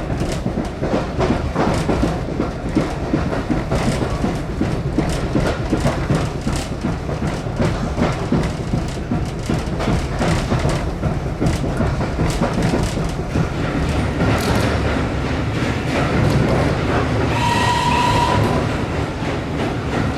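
Steam train running on the Swanage Railway, with the continuous rattling clickety-clack of wheels and carriages over a low rumble. A brief high steady tone sounds about seventeen seconds in.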